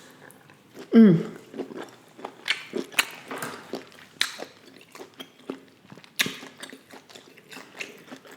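Close-miked chewing and biting of lobster tail in butter sauce: many small irregular clicks and squelches. About a second in comes one short, loud vocal sound that falls in pitch.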